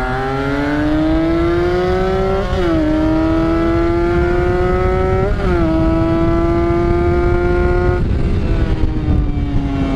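Two-stroke motorcycle engine with an aftermarket exhaust accelerating. The pitch climbs and drops sharply at two upshifts, about two and a half and five and a half seconds in. It then holds and falls off as the throttle is eased near the end. A low wind rumble runs on the microphone throughout.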